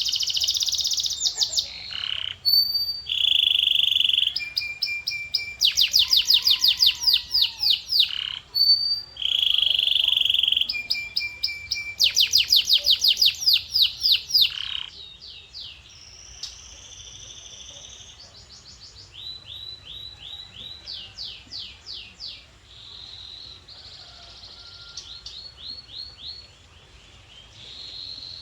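Male canary singing: a song of fast repeated trills and short held whistled notes, changing from one phrase to the next. It is loud for about the first half, then goes on more quietly.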